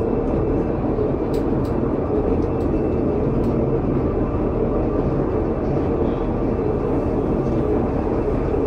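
Pilatus Railway cog railcar running steadily downhill, heard from inside the driver's cab as a constant, even running noise. A few faint clicks come between about one and three and a half seconds in.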